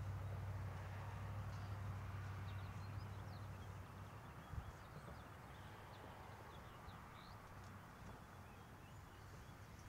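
Faint birds chirping in short, quick calls over a low steady hum that fades out after about four seconds, with one soft thump about halfway through.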